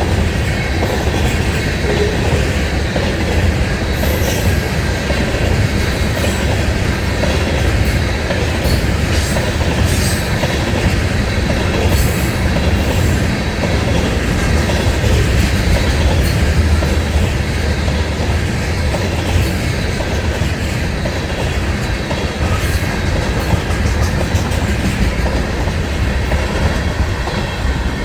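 Freight train of ethanol tank cars rolling steadily past, with a continuous low rumble of wheels on rail and the clatter of wheels over rail joints.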